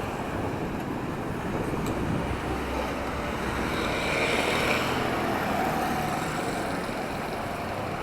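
Street traffic noise: a steady rumble of passing vehicles, swelling slightly about halfway through.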